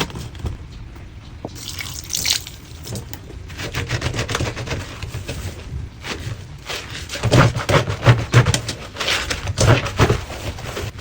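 Sink being scrubbed with washing powder and water: wet scrubbing strokes with dripping and splashing, getting louder and quicker in the second half.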